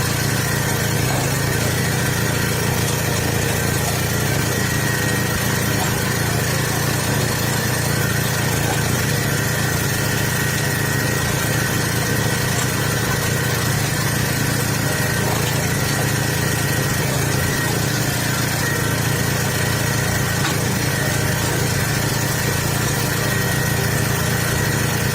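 Engine of a homemade hydraulic log splitter running steadily at an even speed, a constant hum with no change in pitch.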